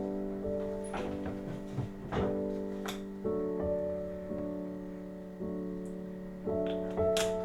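Soft background piano music with held chords, with a few light clicks and knocks over it.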